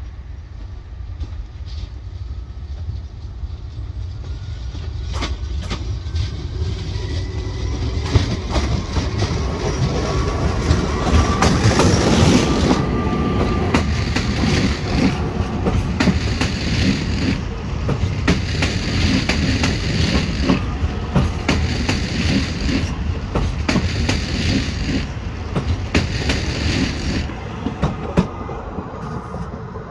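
Régiolis regional electric train pulling out and accelerating past at close range. A faint motor whine rises in pitch, and the running noise is loudest about twelve seconds in. After that the wheels clatter over rail joints and pointwork in a steady repeating rhythm as the carriages roll by.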